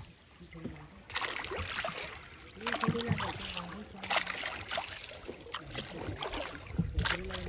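Small rowing boat being rowed by hand: a splash and knock of the oar about every second and a half, over running water.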